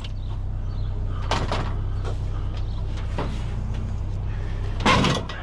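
Knocks and rattles from items being shifted and tied down on a truck's scrap load, three of them, the loudest near the end, over a steady low hum.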